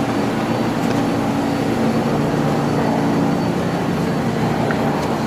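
New York City subway car running between stations: a steady loud rumble of wheels on the rails with a low, even hum underneath.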